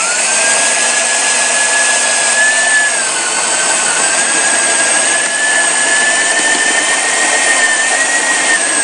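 Electric drill running continuously with a wood-boring bit, boring a round hole through wood. It makes a steady high whine whose pitch sags a little about three seconds in and then recovers as the bit is loaded.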